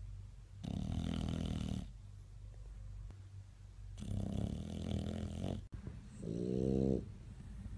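Bulldog snoring: two long, loud snores about three seconds apart, then, after a cut, a shorter snore with a clear, humming pitch, all over a low steady hum.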